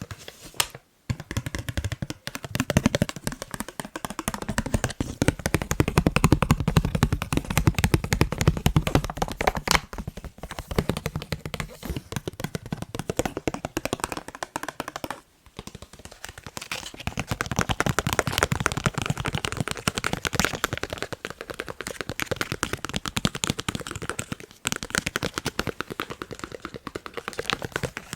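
Fast tapping on a face mask, a dense run of many taps a second, broken by short pauses about a second in, about halfway, and a little over three quarters through.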